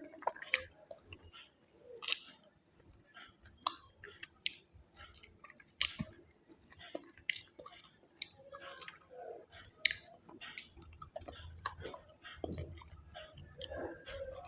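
A person chewing a mouthful of chicken biryani close to the microphone: irregular wet mouth clicks and smacks.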